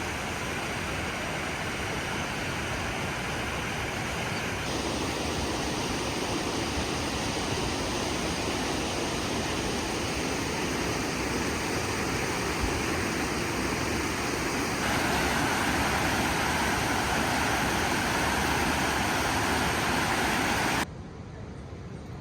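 Steady rushing noise with no distinct events. It shifts abruptly in tone and loudness about a fifth of the way in and again past the halfway mark, then drops sharply near the end.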